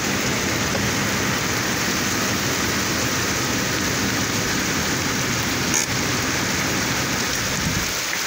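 Heavy monsoon rain pouring down steadily, with one brief knock about six seconds in.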